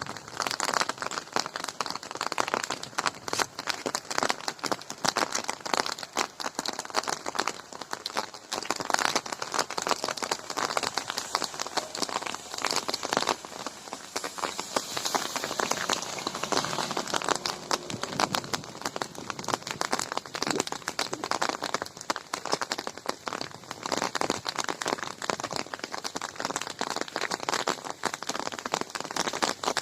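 Steady rain falling, with many fine, close drop ticks on hard surfaces.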